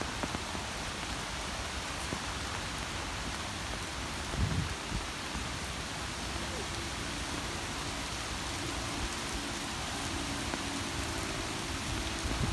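Steady rain falling, with a brief low thump about four seconds in and a faint low hum joining it about halfway through.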